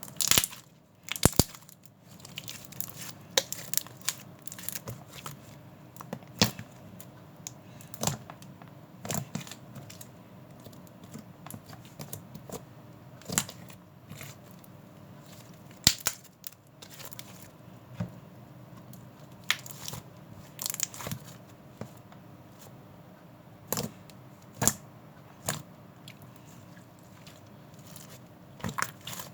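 Scattered sharp clicks and short rustles of something being handled close by, at irregular intervals of a second or two, the loudest about a second in and again about midway.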